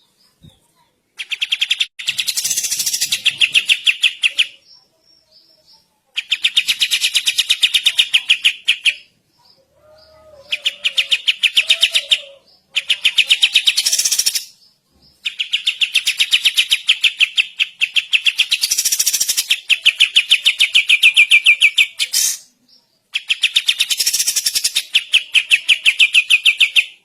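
A kapas tembak singing loudly in its rattling, machine-gun-like "dorrr" song: a fast run of rapid, evenly spaced notes. The song comes in six bouts of a few seconds each, separated by short pauses.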